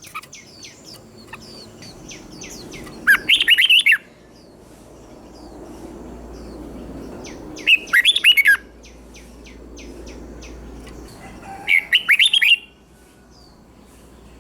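Red-whiskered bulbul singing three short, quick, warbled phrases about four seconds apart, with faint chirps from other birds in between.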